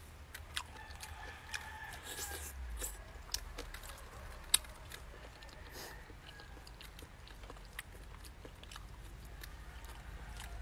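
Close-up mouth sounds of a person chewing a mouthful of grilled tilapia and rice, with wet clicks and lip smacks. A sharp click about four and a half seconds in is the loudest sound.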